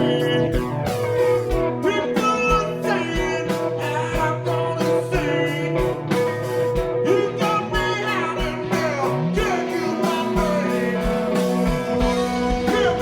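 Blues-rock band playing an instrumental passage live: electric guitar holding and bending notes over bass and a steady drum beat about twice a second.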